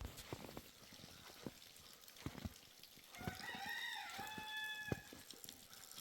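A rooster crows once, about three seconds in: a call of about two seconds that rises at first and then holds steady before stopping. Light knocks and taps are scattered around it.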